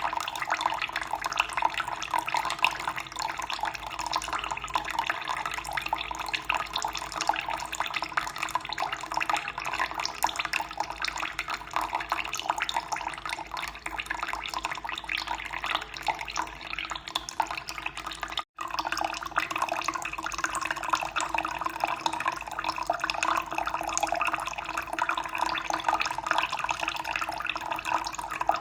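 Running water splashing and trickling steadily, with a momentary cut-out about two-thirds of the way through.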